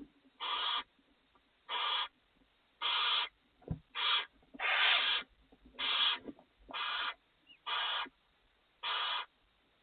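Barn owl in the nest box giving a hissing, rasping snore call over and over, about one a second: the food-begging call of barn owls. A brief low thump about three and a half seconds in.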